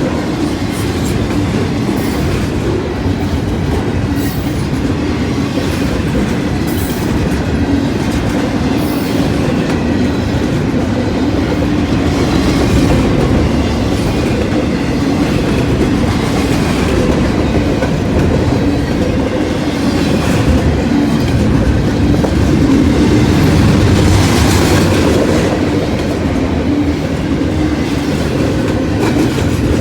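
Freight train cars rolling past, a steady, loud rumble of steel wheels on the rails.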